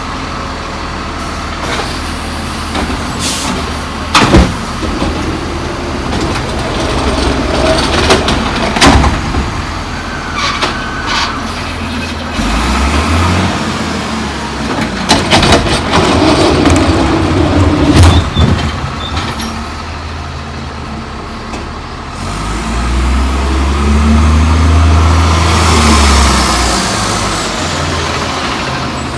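Crane Carrier LET1 diesel garbage truck working its collection: the engine runs steadily and twice revs up hard, about halfway through and again near the end, to drive the hydraulics. Sharp metal bangs and clanks come several times in the first two-thirds, with air-brake hissing.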